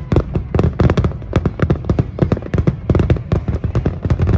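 Aerial fireworks bursting in a rapid barrage: loud, sharp bangs and crackles, several a second, one after another without a pause.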